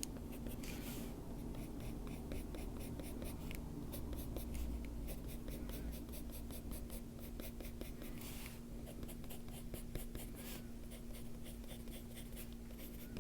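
Colored pencil shading on paper: quick, repeated back-and-forth strokes scratching on the page, over a steady low hum.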